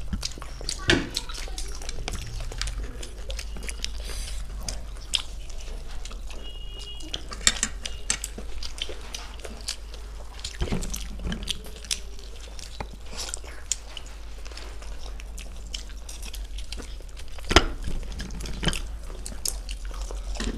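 Close-up eating sounds of people chewing fried chicken: wet chewing and lip smacking with scattered sharp clicks as the meat is bitten and torn, over a steady low hum.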